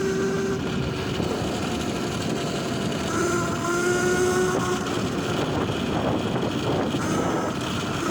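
Electric bike's motor whining under way over steady tyre and wind noise. The whine fades in and out, coming back about three seconds in with a slight rise in pitch before dropping away.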